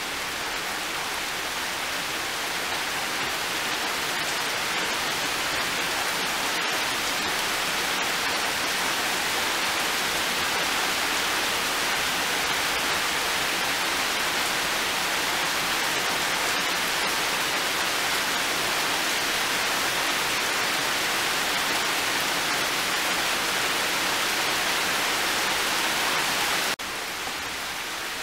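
Heavy rain falling steadily, a dense even hiss that grows louder over the first several seconds, then drops suddenly to a quieter level near the end.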